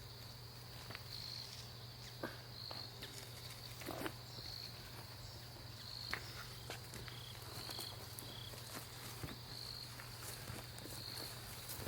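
Crickets trilling steadily at a high pitch, swelling to a louder pulse every second or two, with a second insect adding three short, slightly lower notes about seven seconds in. Scattered light clicks and footsteps from work nearby.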